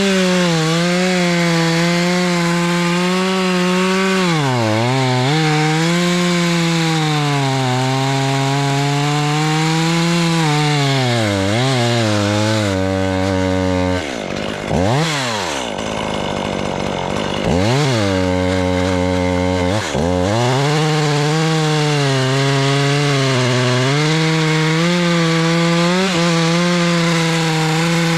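Two-stroke chainsaw cutting hickory at full throttle. The engine pitch sags as the chain bogs down in the cut and climbs back. Around halfway it drops off briefly and revs up again.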